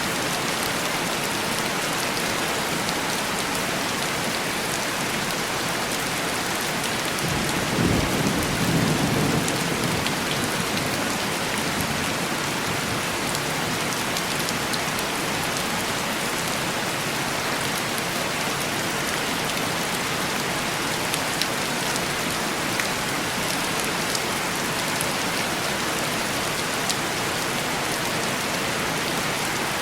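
Heavy rain falling steadily on window glass. A low roll of thunder comes in about eight seconds in and fades after a couple of seconds.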